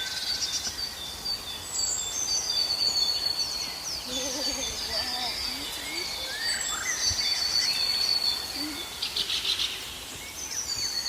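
A chorus of several birds calling and singing together: rapid repeated high chirps, whistles and short trills, with a few lower wavering calls about four to five seconds in.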